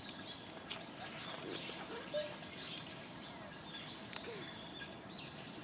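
Outdoor ambience: small birds chirping on and off over a steady background of distant noise.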